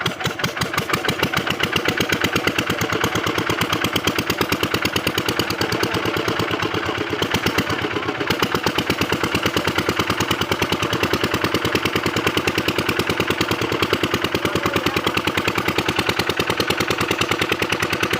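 Kirloskar 8 hp single-cylinder diesel engine of a water-pump set running steadily, a rapid even thud of firing strokes. It picks up a little in the first second or two, then holds a steady speed.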